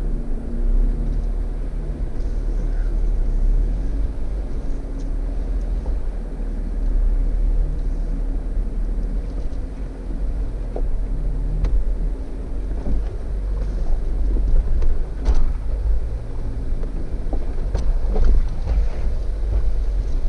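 Jeep engine running at low speed under load while crawling up a steep rock climb, with a deep steady rumble and a few sharp knocks from the vehicle on the rock.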